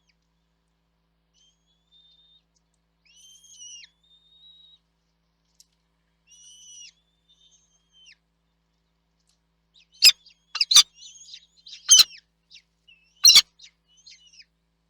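Small birds calling at a nest: a few faint thin whistled calls in the first half, then, about ten seconds in, a run of loud sharp calls with four very loud clicking strokes among them.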